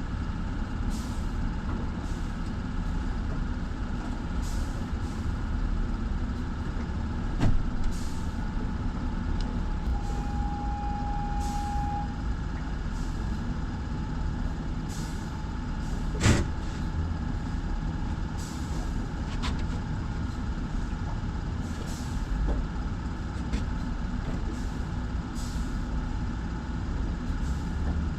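Open-water ambience around a small fishing boat: a steady low rumble with soft swishes recurring about once a second, two sharp knocks about a quarter and halfway through, and a brief steady tone around ten seconds in.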